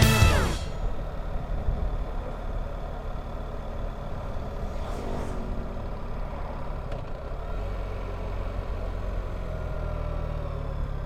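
BMW R1300GS boxer-twin engine running at road speed under wind and road noise, with a brief rushing sound about five seconds in and a slight rise in engine pitch near the end.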